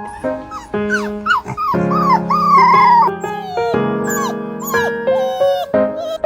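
A dog howling and whining in a string of rising-and-falling calls, the longest and loudest a wavering howl about two seconds in, over background music.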